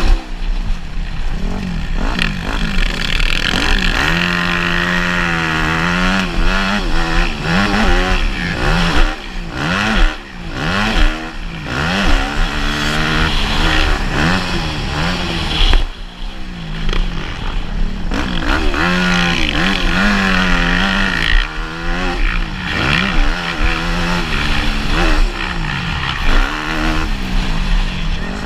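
Motocross motorcycle engine revving hard and backing off over and over, its pitch climbing and dropping every second or two as it accelerates and shifts, with a few brief dips where the throttle is chopped.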